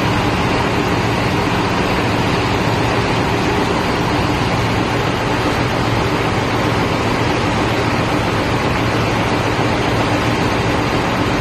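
A fishing boat's engine running steadily under way: an even, unchanging drone under a constant rushing hiss.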